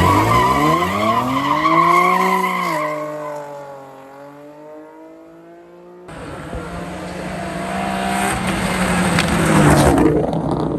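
Drag race car engines launching off the line: the engine pitch climbs steeply for about three seconds as the car accelerates, then drops and fades as it pulls away down the strip. About six seconds in, a second loud stretch of engine and rushing noise cuts in, builds, and peaks near the end.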